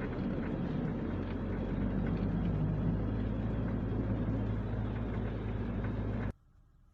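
A vehicle's engine running steadily, a low hum with road or cabin noise over it, cut off abruptly about six seconds in.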